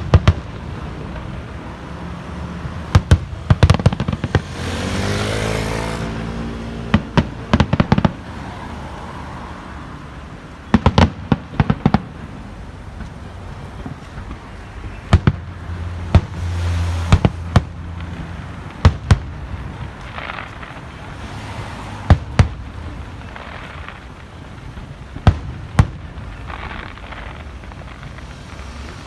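Aerial fireworks shells bursting overhead: sharp loud bangs in quick clusters of two to four, coming every couple of seconds, with a low rumbling echo between them. About five seconds in there is a longer hissing burst.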